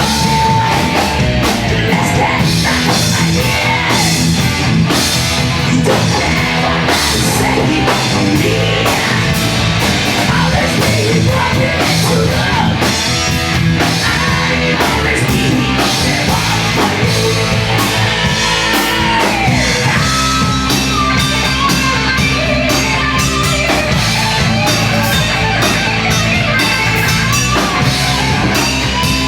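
A band playing loud, heavy rock music live, with distorted electric guitars and a drum kit hitting hard, in the post-hardcore/screamo style.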